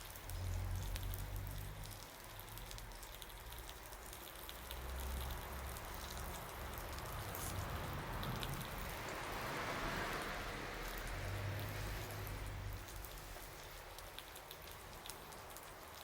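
Wood fire crackling, with scattered sharp pops over a steady hiss that swells around the middle; a low rumble comes and goes.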